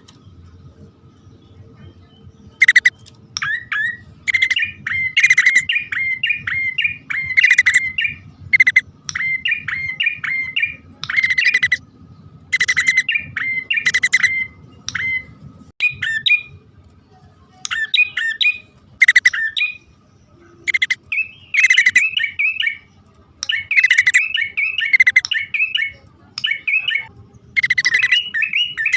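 Prenjak poci (a prinia) calling: repeated bursts of rapid, chattering chirps, each phrase about a second long with short gaps between, starting a couple of seconds in. A lure recording of male and female birds calling.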